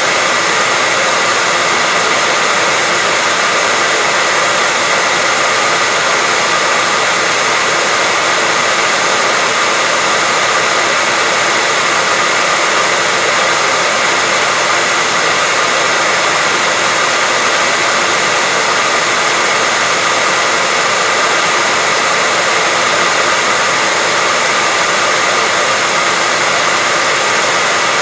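Hair dryer running steadily: a constant rush of blown air with a faint steady whine in it, unchanging throughout.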